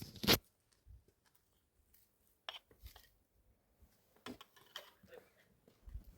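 A sharp knock about a third of a second in, followed by scattered lighter clicks and clatters at irregular intervals, as of objects being handled.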